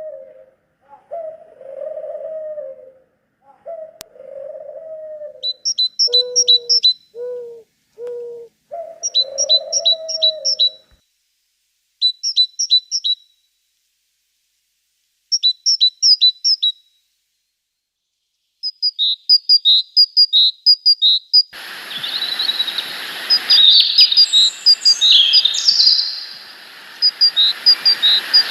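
A dove cooing in repeated low phrases, then small songbirds chirping in quick runs of four or five high notes that come every couple of seconds. In the last few seconds the chirping grows busier over a steady outdoor hiss.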